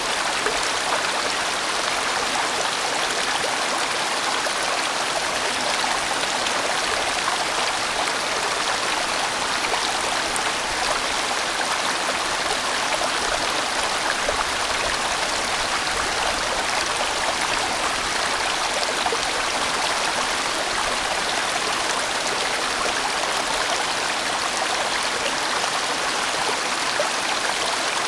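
A fairly large mountain stream rushing and burbling over rocks in a steady, even flow.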